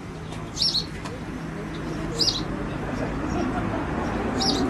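A small bird calling in short high chirps, each a quick double or triple note, repeated about every second and a half, over a background murmur of distant voices.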